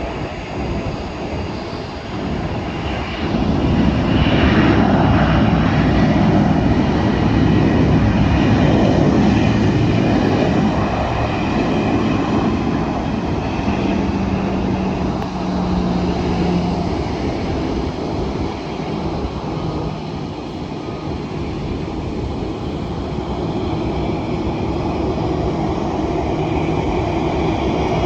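An airliner's jet engines passing close by: a loud rush that swells a few seconds in, is loudest for several seconds, then slowly fades away.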